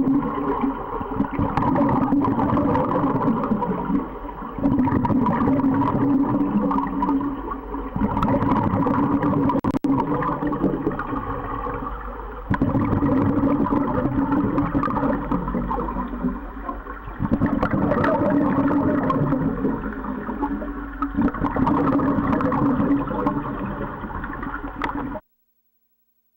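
Underwater bubbling and gurgling from a scuba diver's regulator, swelling and easing in a steady cycle about every four to five seconds with each breath. It cuts off abruptly about a second before the end.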